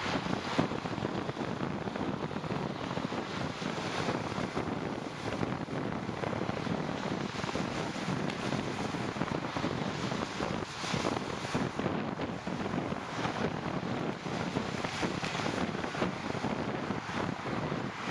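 Wind buffeting the microphone of a moving rider, a steady rushing noise with small gusts, mixed with road noise on wet pavement.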